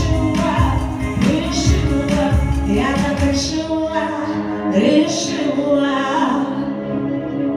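A song with a vocal line sung over a steady beat and instrumental accompaniment; the beat drops out about halfway through, leaving held chords.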